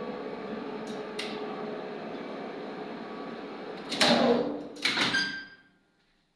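Lift machinery motor running with a steady hum, with two short clicks about a second in. About four and five seconds in come two loud metallic clanks as it stops, and their ringing dies away to silence.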